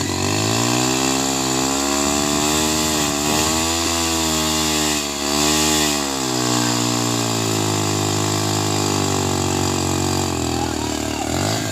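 Small petrol engine running just after starting, revved up and down a few times between about two and six seconds in, then settling into a steady run.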